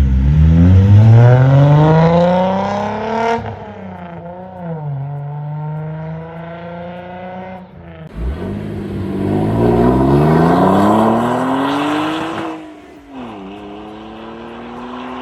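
A car's V6 engine accelerating hard twice, its note climbing steadily and then dropping back to a lower steady drone. The first run starts at the beginning, and the second starts about eight seconds in.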